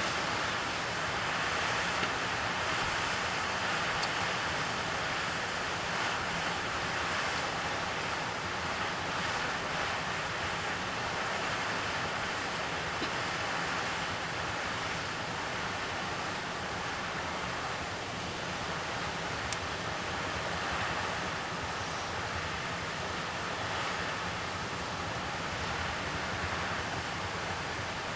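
A steady, even rushing noise with no clear bird song standing out.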